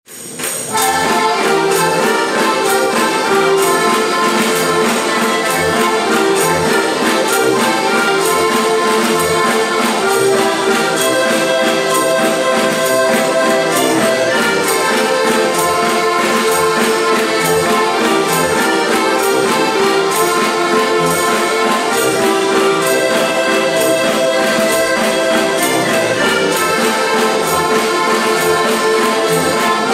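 Heligonka (Slovak diatonic button accordion) music: a folk tune played in held, reedy chords over a regular pulsing bass, starting about half a second in.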